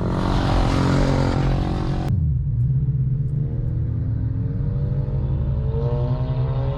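Car engine running with a steady low drone, then rising in pitch as the car accelerates from about three seconds in. A loud rush of noise over it cuts off abruptly about two seconds in.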